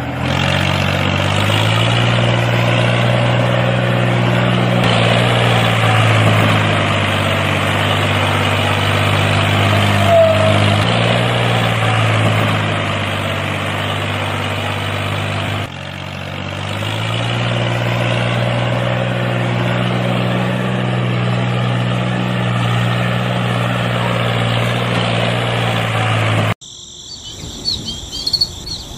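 Tractor engine running steadily, its pitch dipping and shifting a few times. It cuts off abruptly near the end, giving way to faint bird chirps.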